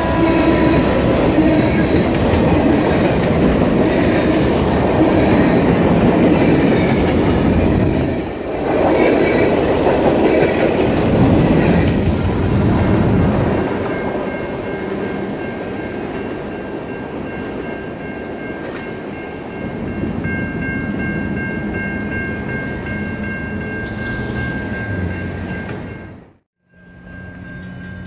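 Freight train of tank cars rolling past close by, its wheels clicking over the rail joints. The last car goes by about 13 seconds in and the train noise fades into the distance.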